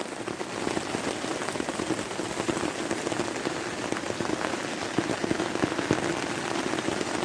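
Heavy rain pouring down on a DD XL tarp overhead: a dense, steady patter of drops with scattered sharper taps.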